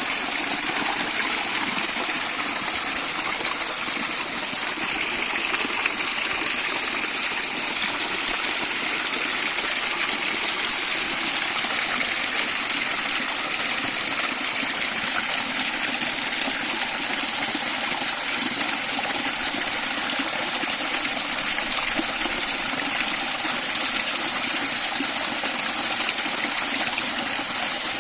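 Stream water rushing and babbling over rocks, a steady even flow.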